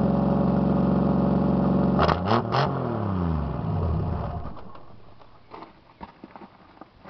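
Straight-piped 1973 Dodge Dart engine held at high revs, then three sharp pops about two seconds in as the revs fall away. The engine dies out about four and a half seconds in, leaving only faint clicks.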